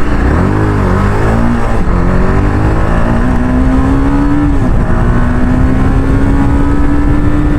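Motorcycle engine under way, revving up and down at first, then pulling steadily with its pitch slowly rising, with a brief drop about halfway through like a gear change.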